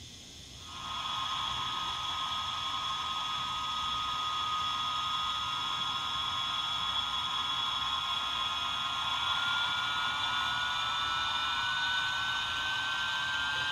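HO-scale model locomotive's ESU LokSound V5 decoder playing a steam turbine sound through its small onboard speaker. A hissing whine starts about a second in and climbs slowly in pitch over the second half.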